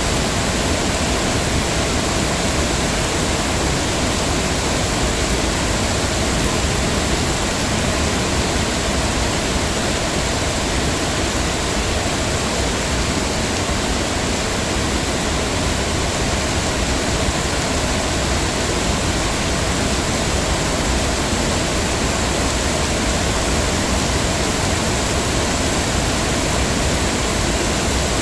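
Heavy rain falling steadily, an even dense hiss without breaks or distinct drops.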